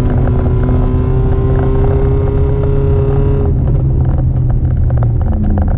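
Mercedes-Benz C180 W202 rally car's 1.8-litre four-cylinder engine heard from inside the cabin, pulling hard at high revs with a slowly rising note, then easing off about three and a half seconds in. Gravel rattles against the underside the whole time.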